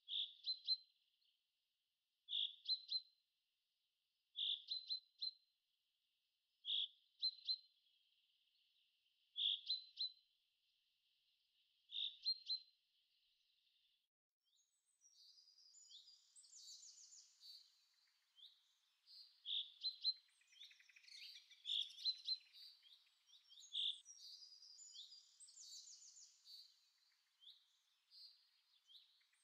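Songbirds singing. One bird repeats the same short phrase about every two and a half seconds, a strong note followed by a couple of quick higher ones. From about halfway through, more birds join with higher, overlapping chirps.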